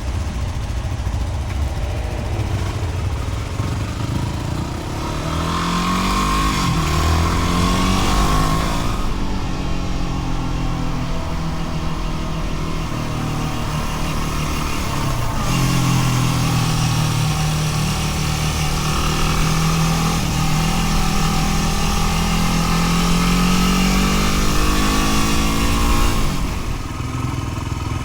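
Dual-sport dirt bike engine running under way, revving up and dropping back again and again as it pulls and shifts.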